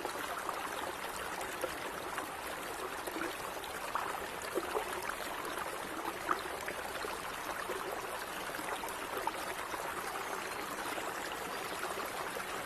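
Stream of gently running water, a steady burble with small splashes and plinks throughout.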